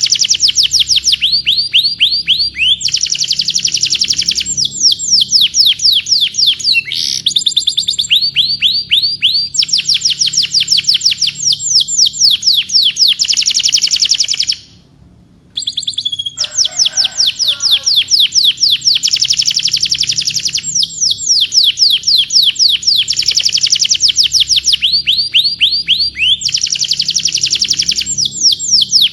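Canary singing: long runs of fast, repeated sweeping notes in a high trill, changing to a new phrase every second or two. The song breaks off for about a second midway, then carries on.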